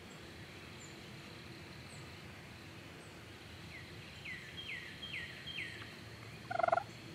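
A wild turkey gobbler gobbles once, loud and short, near the end. Before it, a songbird gives a quick run of five falling whistled notes, with faint high bird chirps behind.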